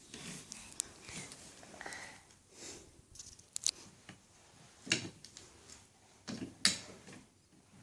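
Scattered light clicks and knocks of toy pieces being handled, the sharpest about a second in, at three and a half, five and six and a half seconds.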